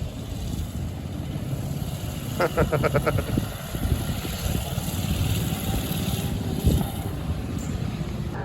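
Small motorbike engine running steadily, with a brief rapid stutter of sharp pulses about two and a half seconds in and a single thump near the end.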